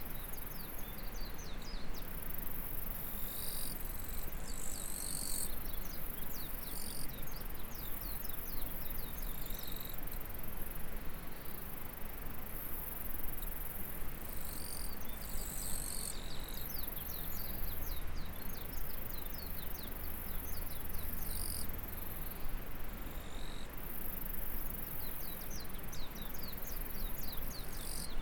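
Insects buzzing steadily in a high band, with bouts of rapid high chirps a few seconds long that keep repeating, over the steady rush of a flowing stream.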